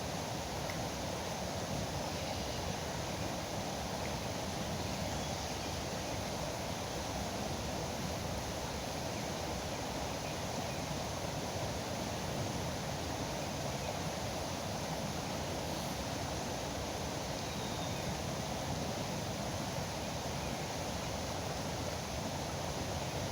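River water rushing and foaming, a steady unbroken noise.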